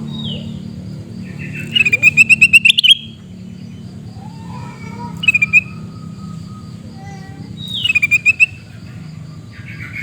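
Kutilang emas bulbul giving harsh, rapid chattering calls, the 'screaming' of this bird. Three bursts of quick, repeated notes, each note sweeping down in pitch, the longest burst lasting about a second. A steady low hum runs underneath.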